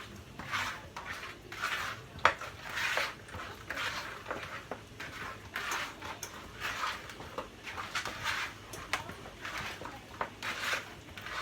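Chicken drumsticks being tossed by hand in seasoned flour in a bowl: a string of irregular rustling swishes, with one sharp knock against the bowl about two seconds in.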